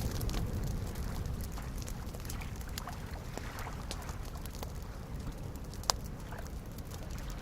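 Wood fire crackling with scattered small pops and one sharp, louder pop about six seconds in, over a steady low wash of small lake waves lapping.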